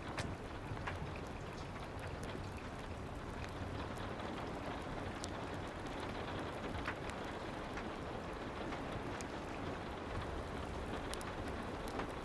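Steady soft rain, an even hiss with scattered faint clicks and ticks throughout.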